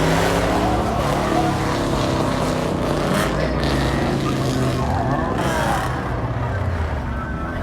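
Car engine running loud and revving, its pitch shifting up and down with the throttle.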